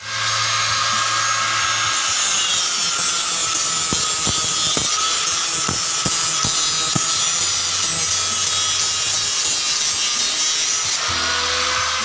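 A small handheld power tool running at a steady high speed with a thin whine. It starts abruptly and winds down near the end, with a few light knocks about halfway through.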